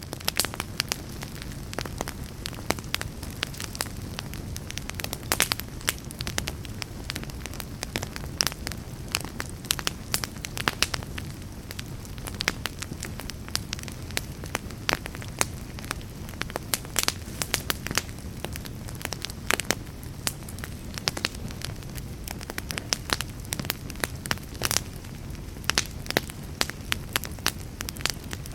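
Fire in a fireplace crackling steadily, with frequent sharp pops and snaps over a low, even rumble of the flames.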